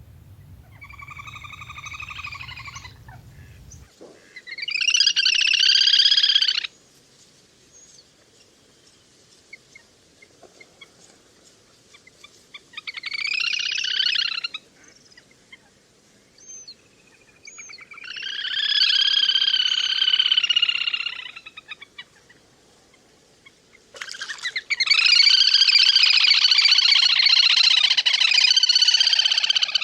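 Little grebe calls: five long whinnying trills, each a rapid pulsing run of a few seconds. The last and loudest begins about 24 seconds in. A low hum sits under the first call.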